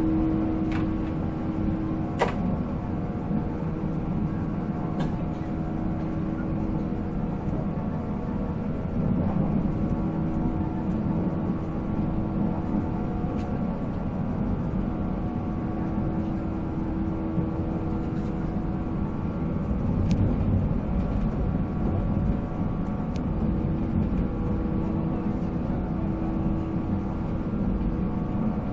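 485-series electric train's MT54 traction motors and gearing whining at a steady pitch while running at speed, with rumble from the wheels on the rails and a few sharp clacks.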